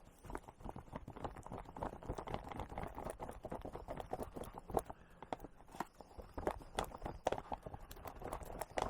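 A spoon beating creme brulee filling mix and water in a container, giving rapid, irregular tapping and scraping.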